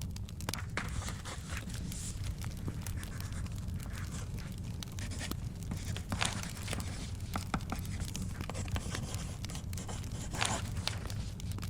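Wood fire crackling in a fireplace with a steady low rumble, while paper book pages are turned, giving a few papery swishes, the clearest about six seconds in and near the end.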